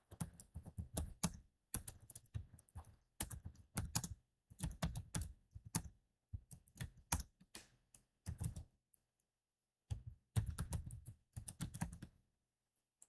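Typing on a computer keyboard: quick runs of keystrokes in bursts separated by short pauses, with a longer pause about two thirds of the way through.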